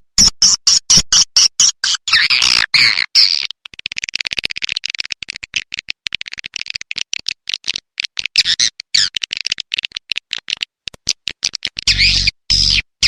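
Recorded swiftlet calls: bursts of rapid high chirping and twittering, broken by a long stretch of fast clicking in the middle, with a few low pulses near the end. This is a swiftlet-house lure call, the rainy-season variant.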